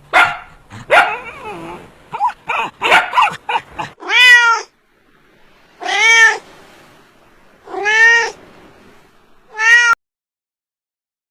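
A domestic cat meowing four times, about two seconds apart, each meow rising and then falling in pitch. It is preceded by a quick run of short, sharp animal sounds.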